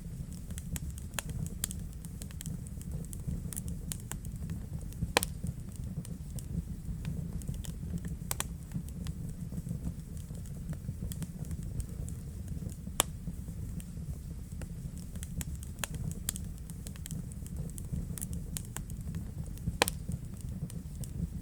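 Wood fire crackling in a fireplace: a steady low rumble of the flames under frequent small irregular ticks, with four sharper pops spread through.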